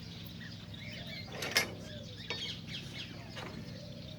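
Cockatiels giving short chirps over a steady low hum, with one louder sharp click or rustle about a second and a half in.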